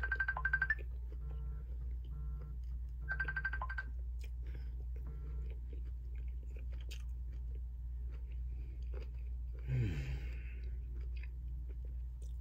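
A person chewing food over a steady low hum, while a phone ringtone chimes in a repeating pattern, loudest at the start and again about three seconds in. A short noise with a falling tone comes about ten seconds in.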